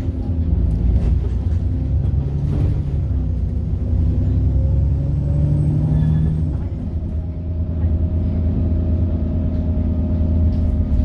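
Diesel bus engine under way, heard from on board with a steady low drone. A faint high turbocharger whine rises for a couple of seconds near the middle and then drops away. There are scattered knocks and rattles from the bus body.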